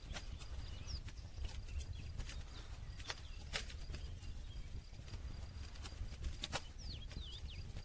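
Wood campfire crackling: irregular sharp pops and snaps, about a dozen, over a low steady rumble of the burning. A few faint, short high chirps come in near the end.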